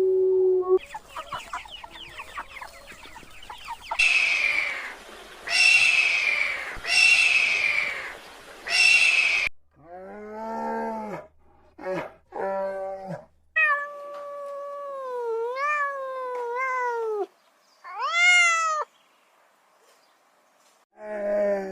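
A run of different animal calls one after another: a dense rapid chatter, then four harsh falling calls about a second apart, then several short pitched cries and one long wavering call, with short pauses between.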